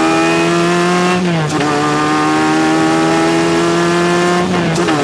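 Formula race car engine pulling hard under acceleration, its pitch climbing steadily, with two upshifts of the manual gearbox: about a second in and near the end, each a short break and a drop in pitch before it climbs again.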